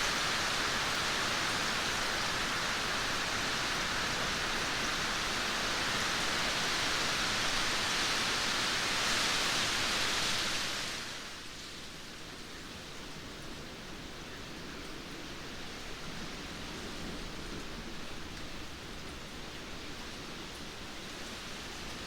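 Steady heavy rainfall, a dense hiss that drops suddenly about halfway through to a softer, duller patter of rain.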